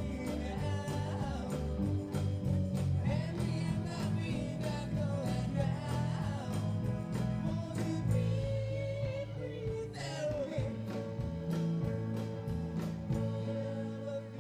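Live band playing a song: singing over guitar, bass and a steady drum beat.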